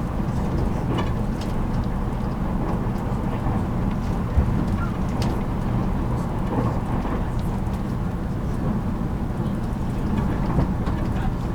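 Running noise inside a JR Kyushu 783 series electric train's motor car at speed: a steady rumble of wheels on rail, with scattered light clicks and ticks.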